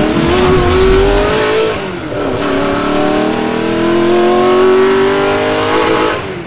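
Car engine accelerating hard through the gears, as an intro sound effect. The pitch climbs, drops sharply at an upshift about two seconds in, climbs again, and fades away near the end.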